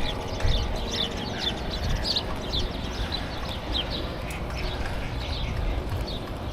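A bird chirping over and over in short, falling high notes, about two or three a second, over a low rumble of wind and bicycle tyres.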